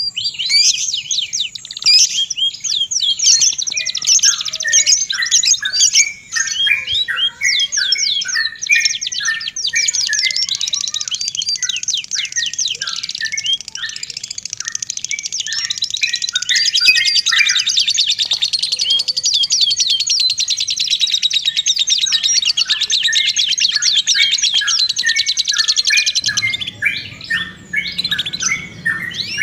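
Songbirds singing in a dense, unbroken stream of rapid chirps and high trills, with one long fast trill running through the middle. It is a bird-song 'therapy' recording of the kind played to caged songbirds to get them singing.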